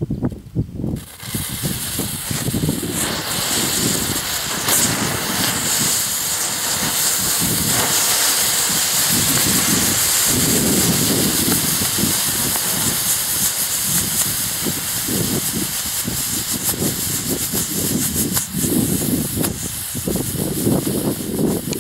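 A chain of linked ground fireworks lit at one end and going off one after another, burning with a loud, continuous hiss that starts about a second in, with a few faint crackles.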